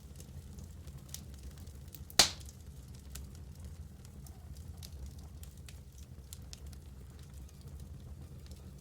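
Wood fire burning in a fireplace: a steady low rumble of the flames with scattered small crackles, and one loud sharp pop about two seconds in.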